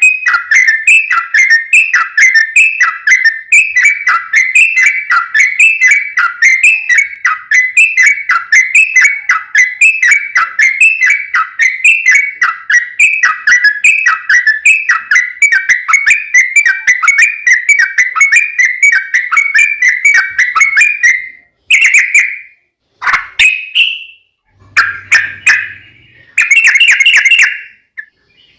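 Sooty-headed bulbul (trucuk) singing a long, unbroken run of quick whistled phrases, about two a second. After some twenty seconds it breaks into a few short phrases separated by sudden silences.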